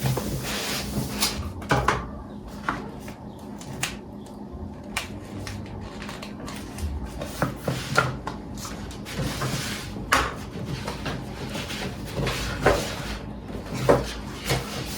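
Household handling sounds: an irregular series of knocks and clicks as things are moved and set down, with cupboard or drawer sounds.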